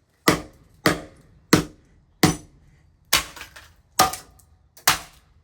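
Repeated heavy blows smashing a laptop: seven sharp strikes in a row, about one every three-quarters of a second, each with a brief rattle of broken parts.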